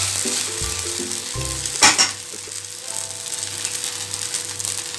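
Dosa-batter cheela sizzling on a hot flat dosa tawa while a metal spatula presses it down. About two seconds in there is one sharp clack, and after it the sizzling goes quieter.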